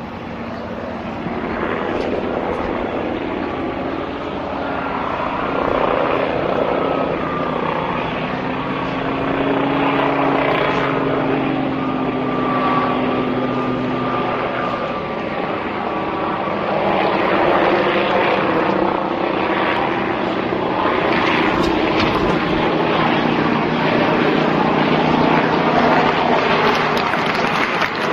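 Aircraft engine droning steadily, with a few held tones that shift slightly in pitch over a rushing noise.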